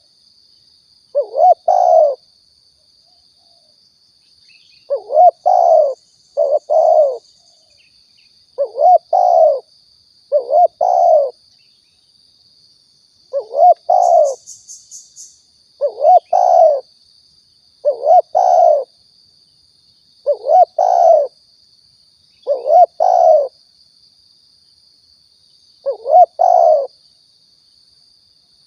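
Spotted dove (tekukur) cooing: a short phrase of coos repeated about every two seconds, played as a lure call. A faint steady high whine runs behind it, and a quick burst of high chirps comes about halfway through.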